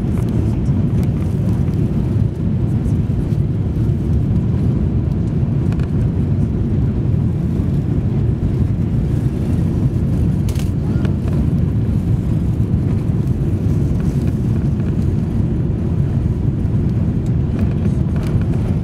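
Steady low rumble of cabin noise inside an Airbus A380 airliner, with a few faint clicks and rattles from the cabin fittings.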